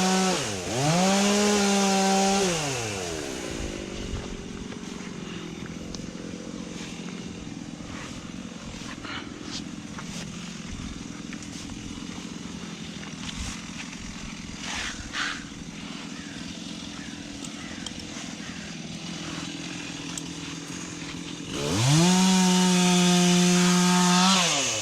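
Chainsaw held at full throttle, dropping to a steady idle about three seconds in, then revved hard again for about three seconds near the end.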